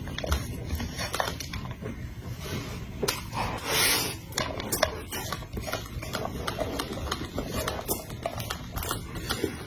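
Close-miked eating: wet chewing with many small mouth clicks and smacks, and a louder hissing stretch of about a second around four seconds in.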